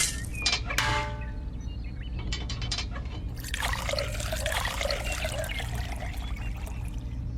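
Water pouring and trickling, starting about three and a half seconds in, over a steady low hum.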